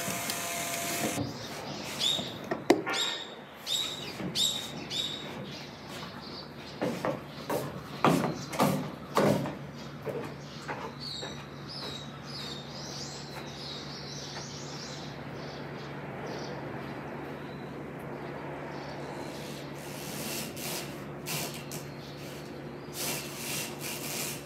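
Birds chirping: a run of about five short, evenly spaced chirps, and later a stretch of higher warbling calls. A steady low hum comes in partway through, with a few sharp knocks around the middle.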